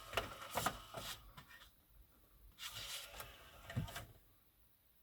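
A few short clicks and knocks with some rustling, in two clusters: one in the first second and one around three to four seconds in.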